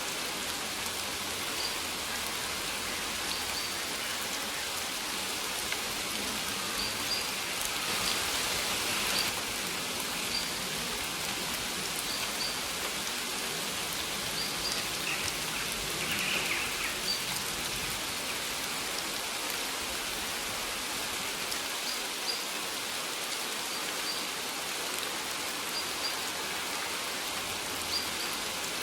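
Steady rain falling on a surface, an even hiss of drops, with short high bird chirps every second or two.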